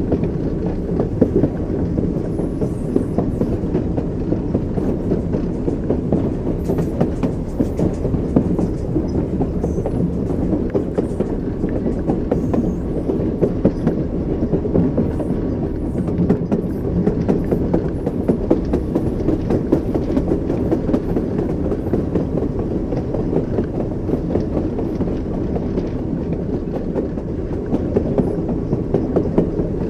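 Train wheels rolling over rail joints: a steady low rumble with clickety-clack knocks throughout.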